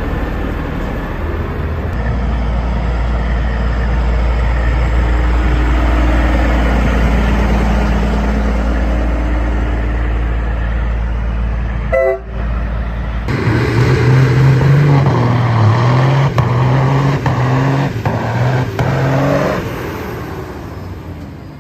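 Heavy truck engines in two separate clips: first a deep, steady rumble, then, after a sudden cut about twelve seconds in, a louder stretch whose low pitch steps up and down.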